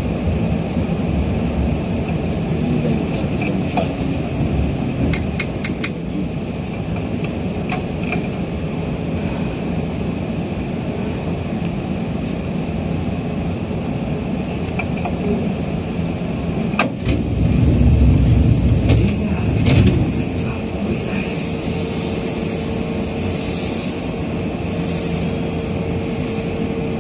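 Inside a chopper-controlled Nagoya Subway Tsurumai Line 3000 series train running in the tunnel, with a steady rumble from wheels and motors and a few sharp clacks. A loud clack comes about 17 seconds in, followed by a heavier low rumble for a few seconds.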